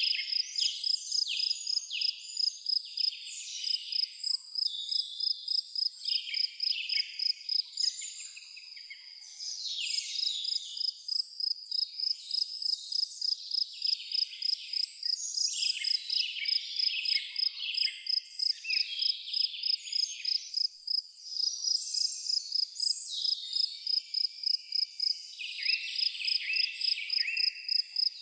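A cricket chirping steadily in a high, even pulse about two to three times a second, with birds singing over it in many short falling notes.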